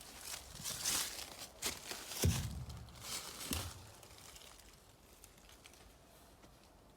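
Footsteps crunching over the ground, about half a dozen steps, with a heavier thud a little over two seconds in. Then they fall quieter.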